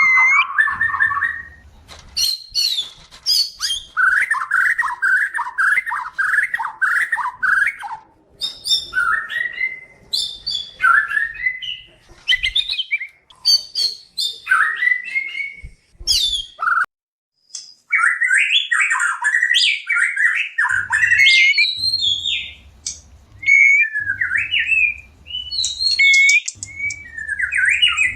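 White-rumped shama song in breeding condition: a fast, varied run of whistles, rising and falling trills and sharp chattering notes, with a short break about two-thirds of the way through. It is a recording of birds in breeding mood, played to lure a caged shama into breeding condition.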